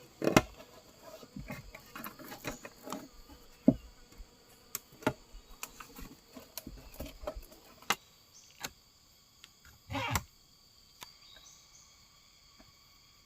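A run of irregular clicks and knocks, thick in the first eight seconds and sparse after, with a longer rustling burst right at the start and another about ten seconds in, over a faint steady drone of forest insects.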